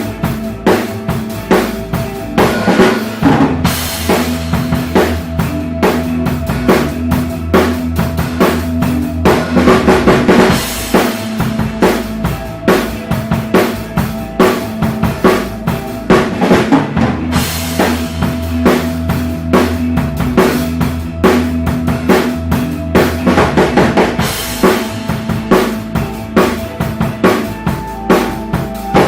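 Drum kit played along to an ambient rock backing track: a steady groove of kick, snare and rimshots over held synth-like tones and a bass line. Crash cymbals ring out about four seconds in, again around ten seconds, and near the end.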